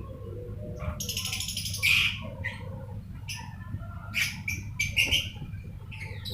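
Lovebirds calling: a harsh, rapid chatter about a second in, then a string of sharp, shrill squawks and chirps, over a steady low hum.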